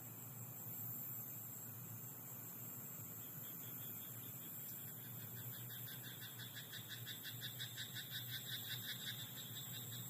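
A frog croaking in a rapid run of pulses, about four or five a second, beginning about halfway through and stopping near the end, over fainter frog calls and a steady high hiss.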